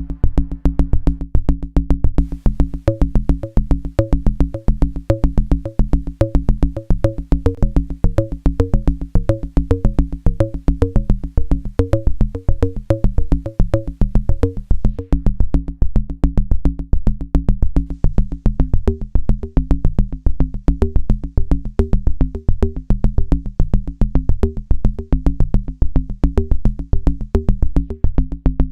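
Synapse Audio Dune 3 software synthesizer playing a preset: a quick arpeggiated pattern of short notes over a held bass, driven by a steady drum-machine pulse. About halfway through, the pattern moves lower.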